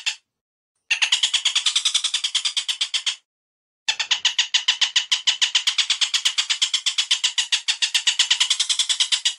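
Recorded bird call used as song-tutoring material: long runs of rapid, harsh repeated notes, about nine a second. The runs break off abruptly twice near the start.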